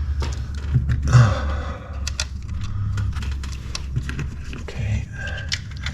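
Hands working on the engine bay and handling tools: a string of light clicks and knocks over a steady low hum, with a louder scrape about a second in.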